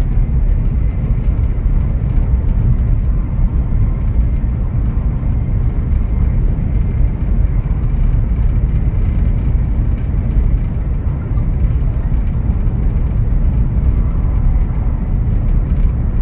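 Cabin noise of a Fuxing Hao high-speed train running at speed: a steady low rumble with a hiss above it, heard from inside the carriage.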